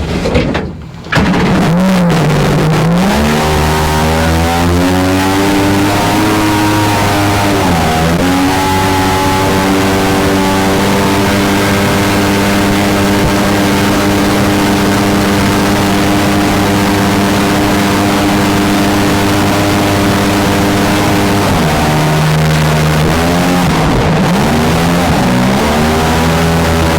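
Mini jet boat's engine revving up from a low idle about a second in and then running at steady high throttle. It eases off briefly about eight seconds in, then near the end drops back, wavers, and revs up again.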